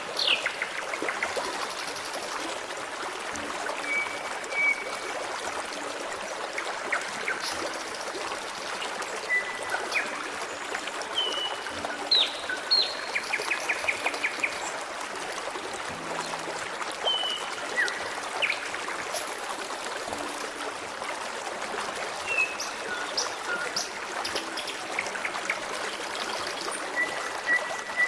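Forest stream trickling and burbling steadily, with songbirds giving scattered short chirps, whistles and a quick trill over it.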